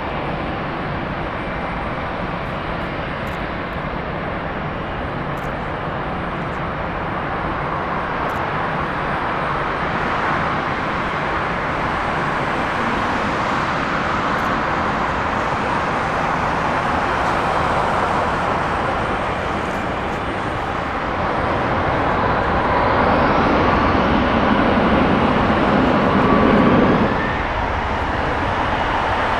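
Jet airliner engine noise, a steady rush that grows louder over the last several seconds, with faint gliding whine tones, then drops off suddenly near the end.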